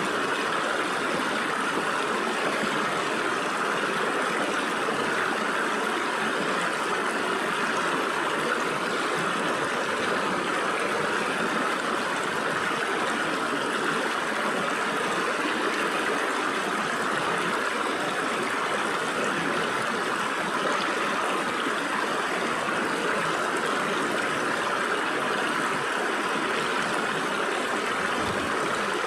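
Stream water flowing and gurgling through gaps between rocks, a steady rushing that stays even throughout.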